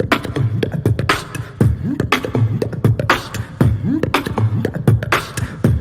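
Beatboxing in an Indian-music style: sharp vocal clicks and kick hits in a steady repeating groove, with low pitched vocal tones that bend up and down between the hits.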